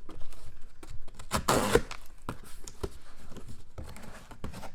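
Packaging being torn and rustled as a shipping box is opened: a run of short rips and crinkles, with one longer, louder tear about a second and a half in.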